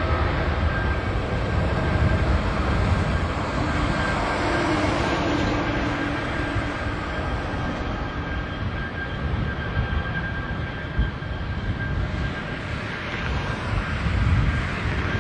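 Jet airliner's engines running: a steady rushing noise, heaviest in the low end, with a thin steady high whine over it, easing slowly in loudness.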